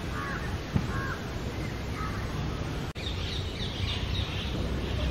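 A few faint, short, harsh bird caws about a second apart over a steady low rumble. About three seconds in, the sound cuts abruptly to faint high chirping of small birds.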